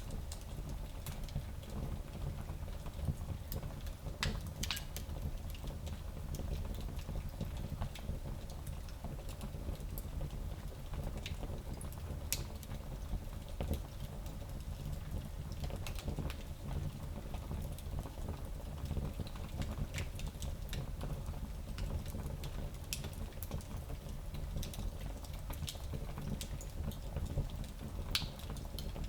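Wood fire burning in a small fireplace: a steady low rumble of the flames with scattered sharp crackles and pops from the burning wood.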